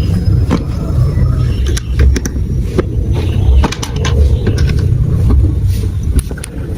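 Marbles rolling along plastic marble-run track pieces: a continuous rolling rumble with many sharp clicks as the marbles drop and knock against the plastic.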